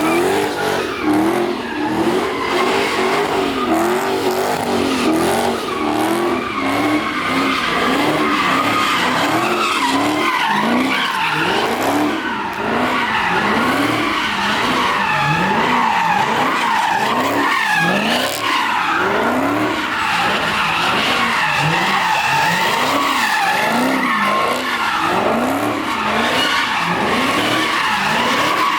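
Car drifting: the engine revs up and falls back about once a second over continuous tyre squeal.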